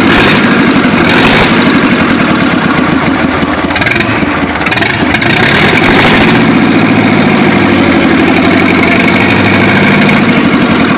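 ZIL truck engine running on a service test start, loud and uneven for the first few seconds, then settling into a steadier idle about six seconds in.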